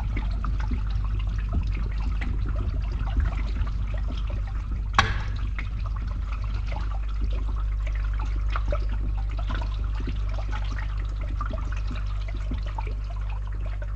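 Water draining through a pipe with a pump running: a steady low hum under continuous gurgling and trickling, with one sharp knock about five seconds in.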